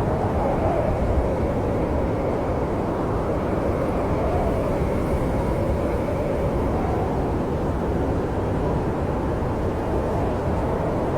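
Snowstorm wind blowing steadily, a low rushing with a faint wavering howl rising and falling above it.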